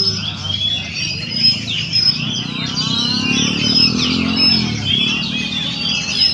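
A caged songbird sings continuously in rapid chirps and short whistled notes. A motor vehicle engine rises and falls in the background around the middle.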